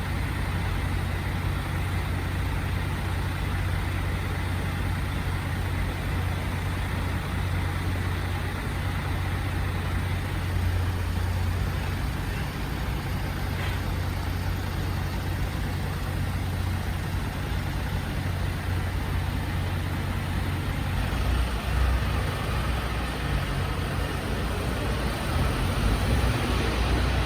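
Heavy truck engine idling steadily with a low hum; the hum deepens and grows louder in the last few seconds.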